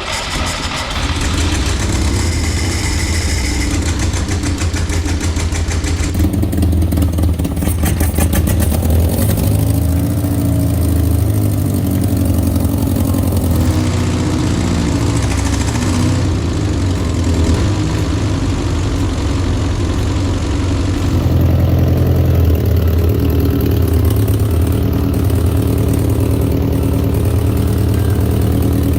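1964 Peugeot 404's four-cylinder petrol engine running just after its first start following a full rebuild of the seized engine. It runs steadily, its note shifting a few times and getting a little louder about two-thirds of the way through.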